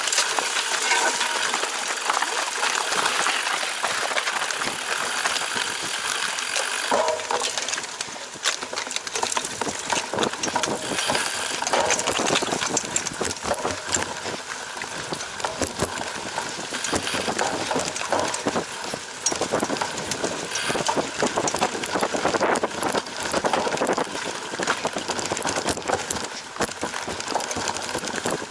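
Cyclocross bike being ridden hard over rough ground: a constant clatter of many small rattles and knocks from the bike and mount, over the rush of tyres and wind on the microphone.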